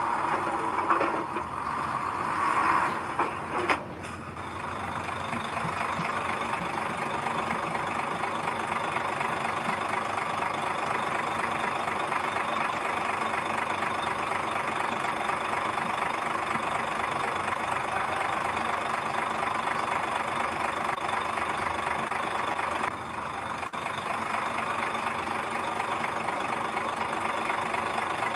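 Heavy earthmoving machine's engine running steadily, after a few uneven seconds that end in a sharp knock about four seconds in.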